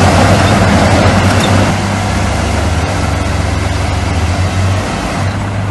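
Heavy diesel engine of earthmoving machinery running steadily with a deep hum, dropping a little in loudness about two seconds in.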